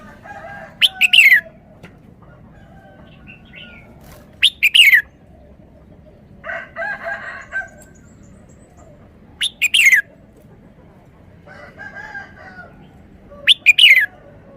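Red-whiskered bulbul singing four loud, short phrases, each a quick run of about three notes falling in pitch, roughly every four to five seconds. Quieter, lower chattering calls come between the phrases.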